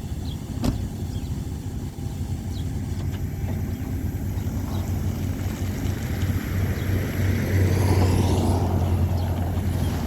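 Dodge truck engine running steadily, getting louder about six to eight seconds in, with a single sharp click just under a second in.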